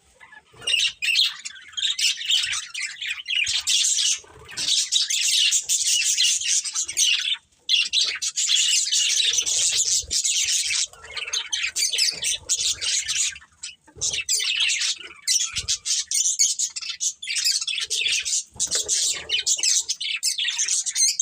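Budgerigars chattering and chirping continuously, a fast warbling stream of calls with harsh squawks mixed in and brief pauses.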